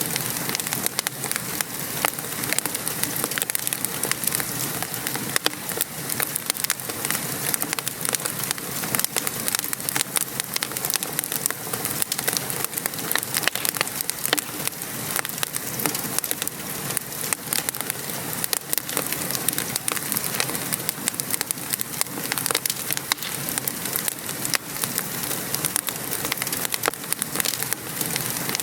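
Wood fire crackling in a fireplace together with steady rain, a continuous hiss dotted with many sharp pops and ticks.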